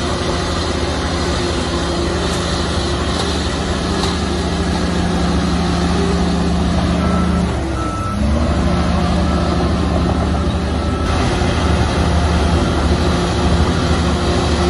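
Heavy diesel earthmoving machinery running steadily under load, the engine note dipping and recovering about eight seconds in. From about halfway through, a reversing alarm beeps at an even pace.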